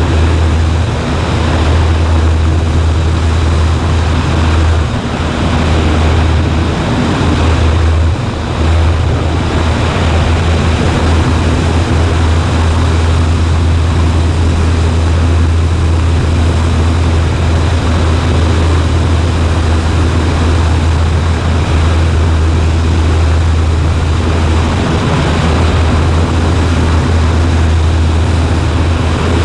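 Cessna 140A's single piston engine and propeller running steadily in cruise, heard inside the cockpit as a loud, even drone with a deep hum and wind rush.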